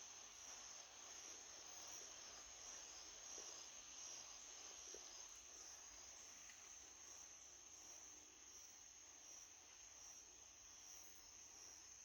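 Crickets trilling faintly in a steady high-pitched chorus, with a fainter chirp pulsing about twice a second above it.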